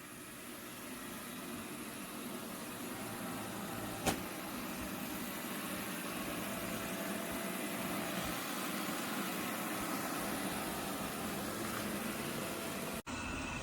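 Anker Eufy RoboVac G30 robot vacuum running, a steady whir of its suction fan and brushes, with a single sharp click about four seconds in.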